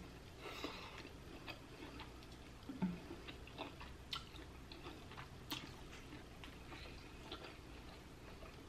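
Quiet chewing of sauce-covered shrimp: soft wet mouth clicks and light scattered ticks, with one short low sound about three seconds in.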